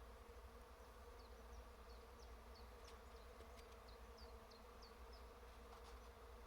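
Faint, steady hum of many honeybees working in a flowering tree. Through the middle, a small bird adds a quick run of short, high, falling chirps.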